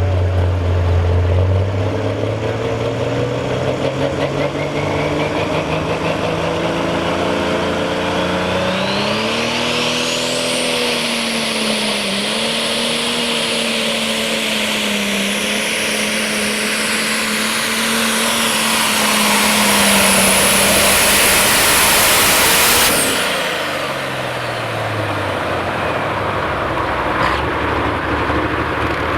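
Turbocharged diesel engine of a super stock pulling tractor at full power on a pull. Its pitch climbs steadily, and about nine seconds in a high turbo whine rises and holds over the engine. Roughly three-quarters of the way through, the whine cuts off suddenly and the engine winds down.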